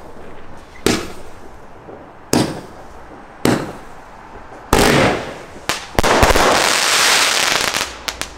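Fireworks going off: three separate sharp bangs a second or so apart, then, about halfway in, a louder burst of dense crackling that runs for a few seconds and ends in a few quick pops.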